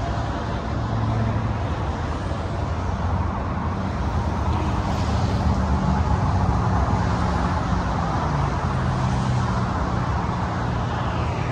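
Double-stack intermodal freight train rolling past: a steady rumble of wheels on rail with a low hum underneath.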